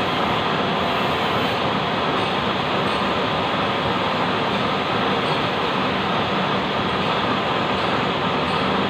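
Lathe running: a steady, even mechanical noise with a faint constant whine, unchanging throughout.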